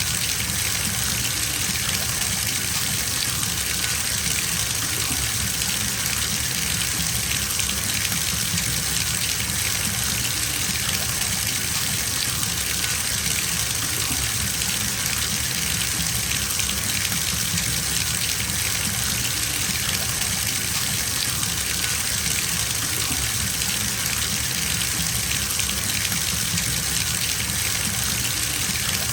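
Bathtub tap running steadily into a filling tub, a constant hiss and splash of water with no change in level.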